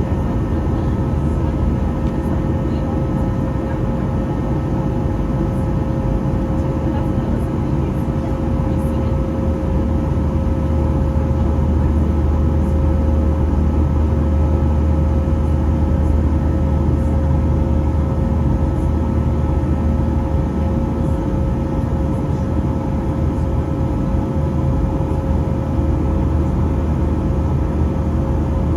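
Steady cabin noise inside a Boeing 737-800 with its engines running: a deep, even rumble with a constant hum on top and no change in pitch or level.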